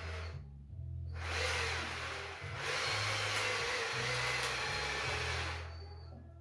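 A power tool whirring in bursts, stopping and starting, over background music with a stepping bass line.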